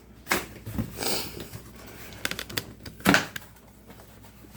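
Cardboard box being opened by hand: scattered knocks and clicks, a rustling tear about a second in, and a louder thump about three seconds in.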